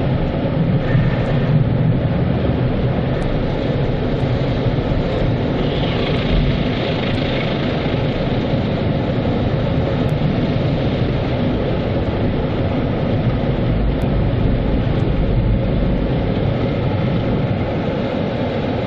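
Automatic car wash equipment running: a steady rumble and rushing noise with no breaks.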